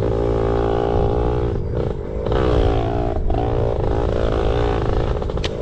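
Yamaha PW80 pit bike's two-stroke single-cylinder engine running under throttle while riding, the pitch rising and falling as the throttle is worked, with brief throttle-off dips about one and a half, two and three seconds in.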